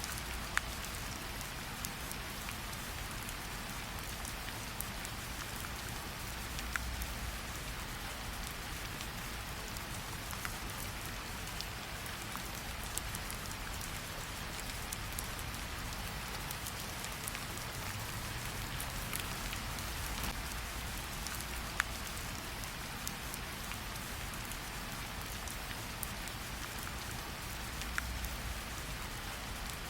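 Steady rain falling, an even hiss, mixed with a fireplace's occasional sharp crackles and pops scattered through it.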